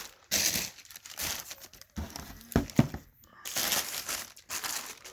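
Fan packaging being handled, rustling in irregular bursts, with two knocks a little past halfway.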